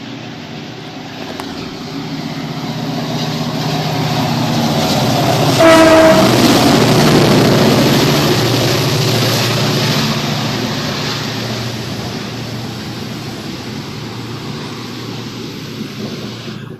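Renfe train passing by, its rumble and rail noise building to a peak about six seconds in and then slowly fading, with a short horn blast just as it is loudest.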